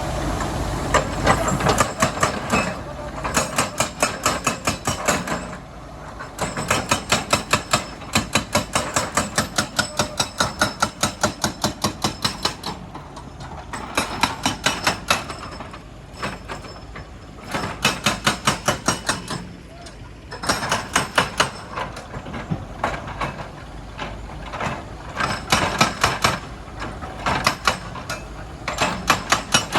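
Hydraulic rock breaker hammering on stone in runs of rapid blows, about five or six a second, each run lasting a few seconds with short pauses between. A diesel engine runs steadily underneath.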